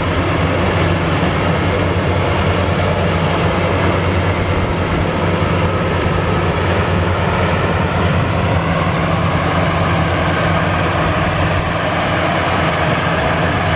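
Maxxi Bimo rice combine harvester running steadily at work in the field, a loud, even machine drone with no change in pace.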